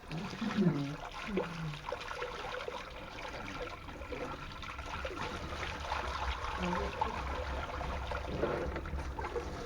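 Water running out of a heating-main pipe being drained, a steady rushing splash; the shut-off valve won't close fully and doesn't hold, so the water keeps coming.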